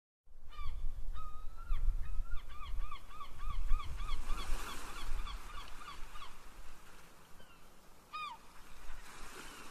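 A bird calling: a few drawn-out notes, then a quick run of short falling notes, about four a second, for several seconds, and one more call a little after 8 seconds. A low rumble runs underneath.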